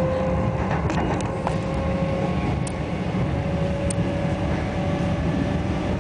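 Cabin noise inside a moving Melbourne suburban electric train: a steady low rumble from the running train, with a faint steady whine and a few light clicks.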